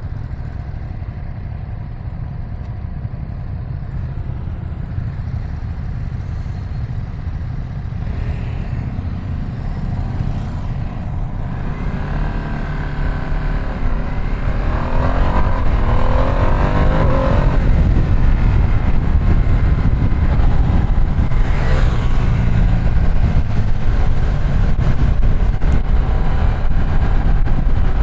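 Ducati Streetfighter V2S's 799cc L-twin engine running under way, its revs rising and falling through the gears from about 12 s in. From about 14 s a rushing noise grows louder as the speed builds.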